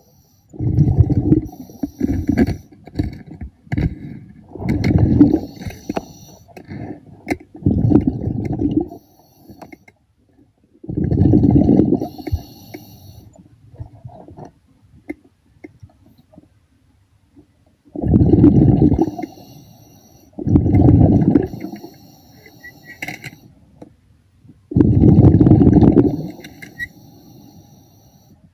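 A diver's exhaled air bubbling out underwater: repeated bursts of low rumbling bubbles, each lasting one to two seconds, several in quick succession, then a longer pause of several seconds before three more.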